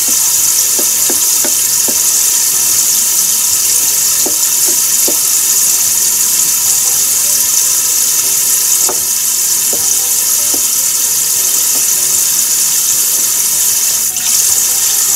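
Kitchen knife shaving burdock root on a cutting board, a scatter of light ticks at uneven intervals as the blade meets the board, over a steady loud hiss.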